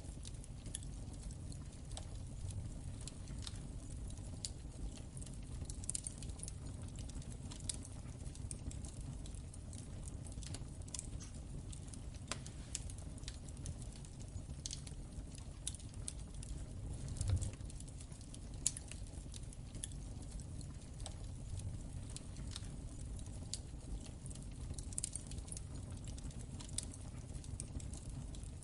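Wood fire crackling in a fireplace: irregular sharp pops and snaps over a steady low rumble of the flames, with one louder low thump about seventeen seconds in.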